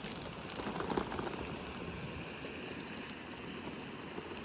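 Steady rushing of a rain-swollen creek, heard as an even hiss with no pitch or rhythm.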